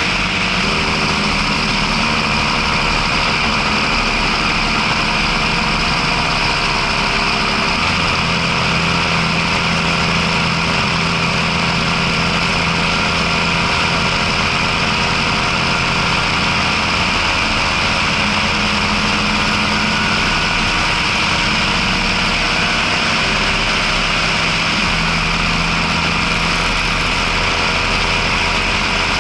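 John Deere 6620 tractor's six-cylinder diesel engine running steadily, heard from the driver's seat, its low note shifting a few times.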